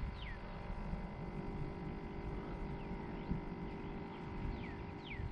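A bird calling in short, high whistles that each fall in pitch: a couple at the start and a quick run of them near the end. Underneath is a steady low rumble.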